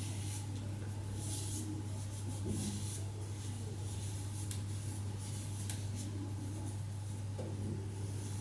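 Face being wiped with toner: soft, repeated rubbing swishes against the skin, over a steady low hum.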